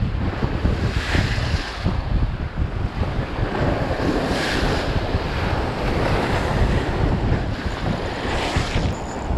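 Strong wind buffeting the microphone over rough surf, with waves surging and washing in about a second in, again for a couple of seconds from about four seconds, and near the end.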